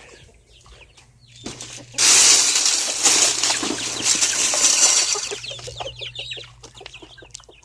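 Chickens clucking in a coop, with a loud rustling noise that starts suddenly about two seconds in and dies away over the next few seconds.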